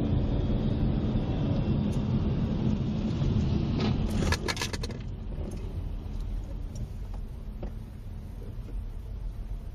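Car engine and road rumble, with a quick cluster of knocks and rattles about four seconds in, after which the rumble is quieter.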